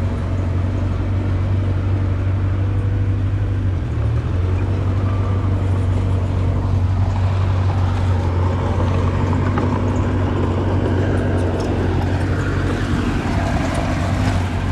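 Diesel engine of earthmoving machinery running steadily, a low even drone that breaks briefly about four seconds in.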